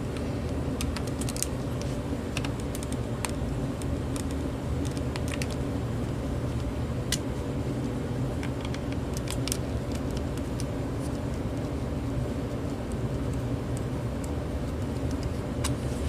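Scattered small clicks and ticks of a screwdriver taking screws out of a plastic cordless phone handset, over a steady low hum.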